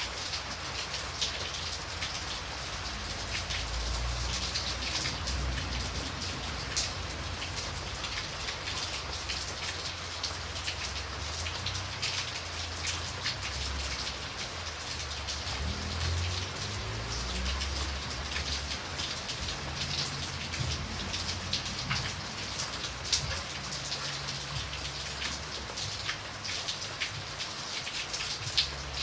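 Steady rain with many individual drops pattering on a surface, over a low, uneven rumble.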